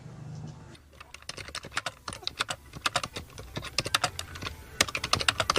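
Rapid, irregular clicking and tapping, several sharp clicks a second, starting about a second in after a brief low hum.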